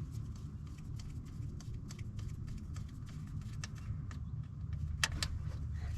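Small metallic clicks and taps of hands and tools working hose clamps onto a fuel line, two sharper clicks about five seconds in, over a low steady rumble.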